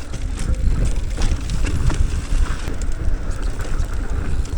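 Mountain bike riding down a dirt jump trail: steady wind buffeting on the microphone with the rattle and clatter of tyres and frame over the ground.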